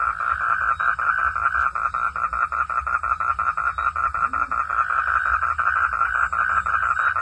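Frogs calling in a steady chorus of rapid, even pulses, about eight a second.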